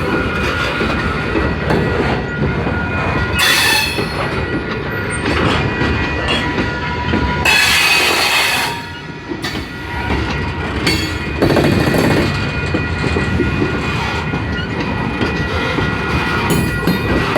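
Train 568's cars rolling past on the rails: a steady rumble of wheels with a thin, steady wheel squeal and a few brief sharper surges of squeal along the way.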